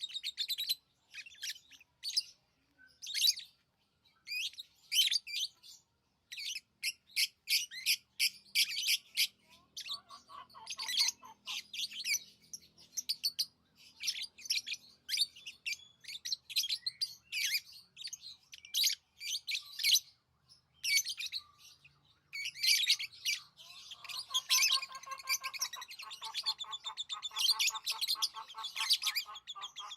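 Pet lovebirds chirping in quick clusters of high-pitched tweets separated by short pauses. About ten seconds in, and again through the last several seconds, a lower, harsher chattering call joins in under the tweets.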